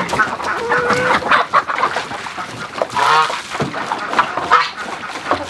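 A flock of chickens clucking and squawking, with a goose honking among them, in many short, overlapping calls.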